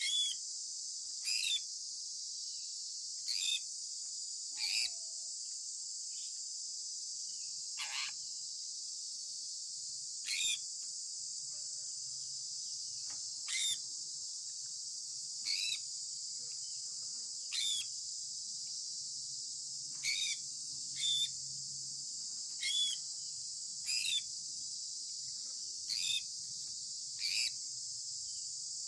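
Sun conure parrot giving short, shrill chirps, one about every one to two seconds, over a steady high-pitched drone.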